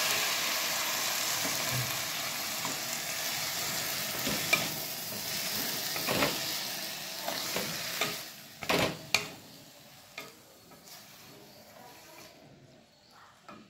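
Chopped tomatoes sizzling in hot mustard oil as they are stirred in a kadhai with a wooden spatula. The spatula knocks against the pan a few times about halfway through. The sizzle dies down steadily and is faint by the end.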